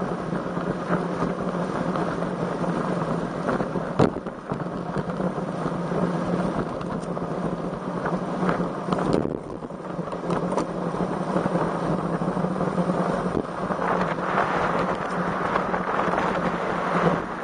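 Strong wind rushing over the microphone of a camera riding on a road bike, with a steady low hum underneath and a sharp click about four seconds in. The wind gets louder near the end.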